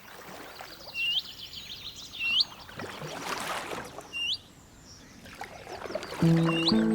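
Canoe paddle strokes and water sounds, while a bird repeats a short, upward-sweeping call four times. Music comes in near the end.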